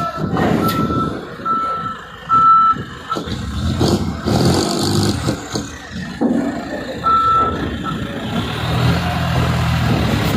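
Truck's reverse warning beeper sounding in short, evenly spaced beeps, about two a second, stopping after about three seconds and beeping once more near the end, over the low running of a heavy diesel truck engine as the truck is manoeuvred.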